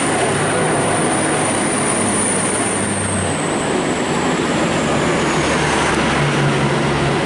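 V/Line VLocity diesel multiple unit pulling out of the platform, its diesel engines running loud, with a high whine that slides down in pitch from about three seconds in.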